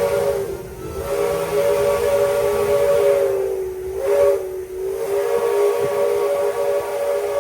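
Steam locomotive whistle on the Walt Disney World Railroad sounding long blasts, a chord of several notes at once, sagging in pitch and dipping briefly twice between blasts.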